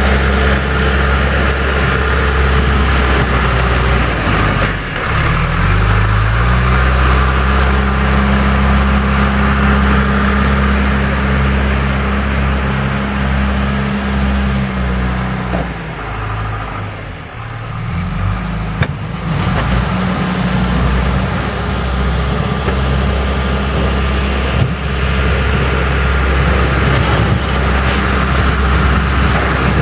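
John Deere 310E backhoe loader's diesel engine revving up and running hard under load while scraping up ice. It drops back briefly about halfway, then picks up again, with a couple of sharp knocks.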